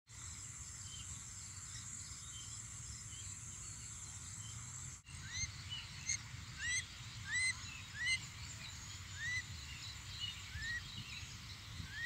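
Outdoor ambience with a steady high-pitched insect drone. After a sudden cut about five seconds in, a bird gives short, rising-and-falling chirps over and over, roughly one a second.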